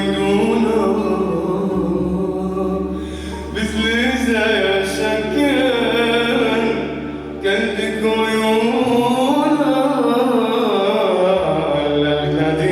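A male singer singing long, ornamented notes that bend up and down, with no clear words, over a steady low drone.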